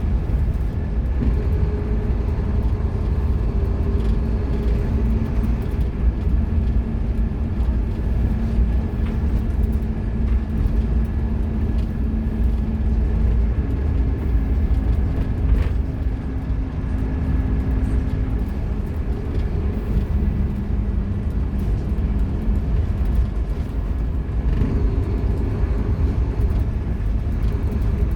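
Scania K230UB Omnilink single-deck bus running under way, its five-cylinder diesel engine giving a heavy low rumble. The engine note steps up about halfway through and drops back a few seconds later.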